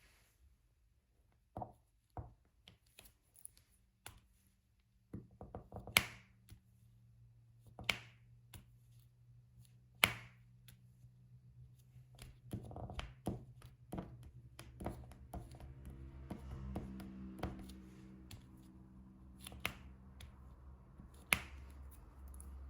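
Diamond painting tools at work: irregular small taps and clicks as the drill pen picks up resin drills and presses them onto the canvas, with a few louder sharp clicks. A low steady hum comes in about five seconds in and runs under them.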